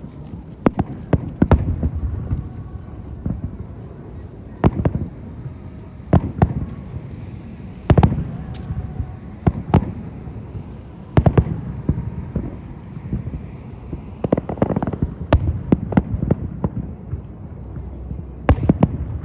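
Aerial fireworks shells bursting: a run of sharp bangs at irregular intervals over a low rumble, with about a dozen distinct reports and a denser cluster around the middle.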